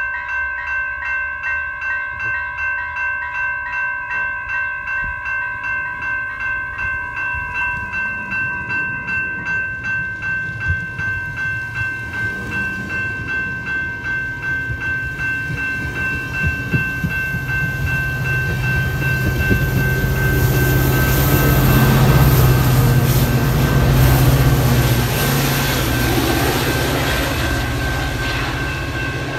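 Grade-crossing bell ringing at about two strokes a second while a Northstar commuter train of bilevel coaches rolls past, its wheels clacking on the rails. The train grows steadily louder, and the diesel locomotive pushing at the rear passes with a deep engine drone, loudest near the end before easing.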